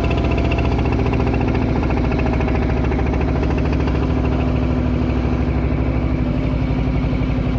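Single-cylinder diesel engine of a klotok river boat running steadily with an even, rapid chugging beat.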